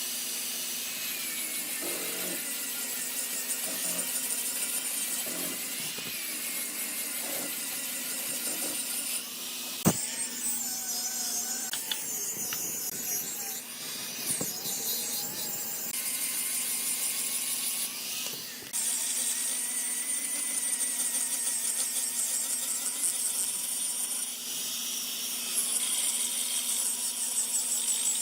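High-pitched whine of running woodworking power machinery, its character changing abruptly several times, with one sharp knock about ten seconds in.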